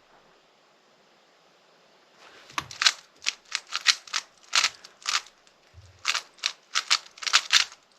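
Speed cube being turned by hand: quick, irregular runs of sharp plastic clicks as the layers snap round, starting about two seconds in.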